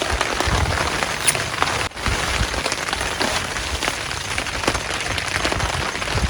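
Heavy rain falling steadily, a dense hiss full of individual drop hits. It cuts out for an instant about two seconds in.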